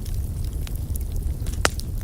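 Wood fire crackling in a fireplace: a steady low rumble of flames under scattered small crackles, with one sharp pop about three-quarters of the way through.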